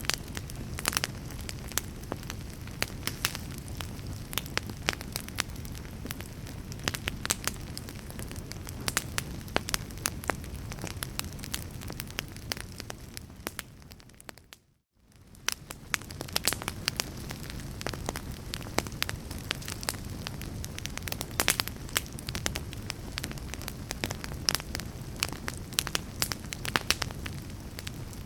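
Fire crackling: a steady low rush with frequent sharp pops and snaps. About halfway through it fades out to silence for a moment, then fades back in.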